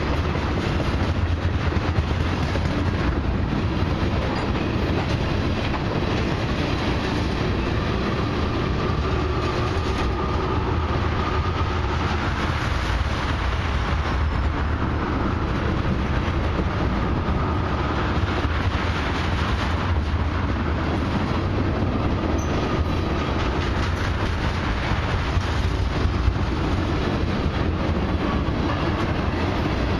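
Loaded ethanol tank cars of a long freight train rolling past at steady speed: a continuous heavy rumble of steel wheels on rail with clickety-clack over the rail joints. A faint high squeal comes and goes through the middle.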